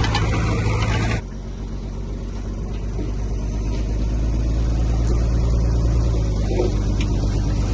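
Diesel engine of heavy earthmoving machinery running steadily. About a second in, a louder, brighter part of the sound cuts off suddenly, leaving a lower engine note that slowly grows louder.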